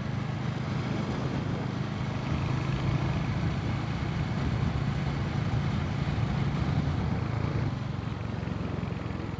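Royal Enfield motorcycle engine running steadily under the rider, a low even engine note with road and wind noise over it.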